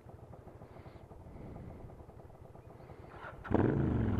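Motorcycle engines idling with a low pulsing rumble. About three and a half seconds in, a nearby engine revs up much louder, as if pulling away.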